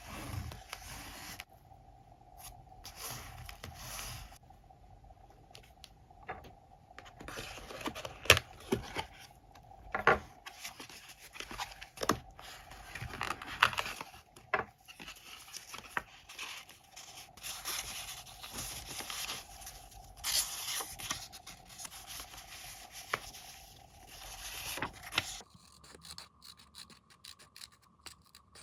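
Close-up scrapbooking sounds: paper and tape handled, rubbed and scraped in irregular strokes, with occasional sharp clicks and snips.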